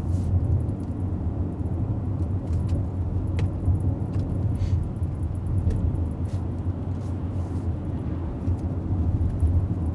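Inside a moving Mercedes GLS 400d: a steady low rumble of road and engine noise from the cruising SUV.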